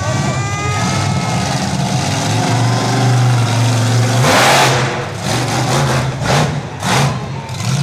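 A heavy vehicle's engine running, revving up about three seconds in, then several short loud rushes of noise in the second half.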